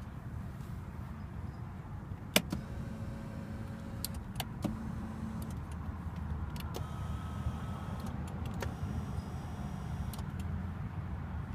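Electric power seat motors whirring in short runs, each started and stopped with a click of the seat switches, over a steady low background rumble.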